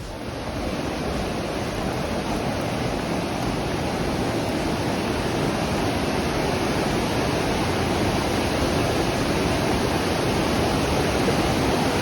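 Steady rushing of a creek in flood after heavy rain, coming up over the first second and then holding even.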